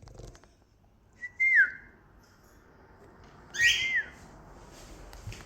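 Female cockatiel whistling twice, about two seconds apart: each call is a short held note that then drops in pitch.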